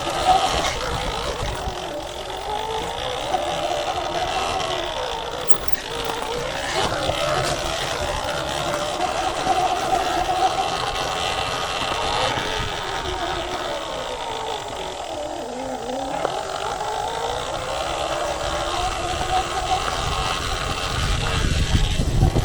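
Sur-Ron Ultra Bee electric dirt bike's motor whining, its pitch rising and falling with speed along the trail, over a steady rushing noise of riding. Heavier low rumbling comes in near the end.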